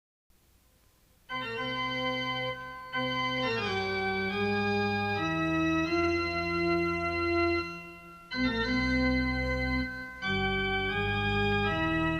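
Keyboard with an organ sound playing slow, held chords that change every second or two, coming in about a second in, with a brief dip near the two-thirds mark.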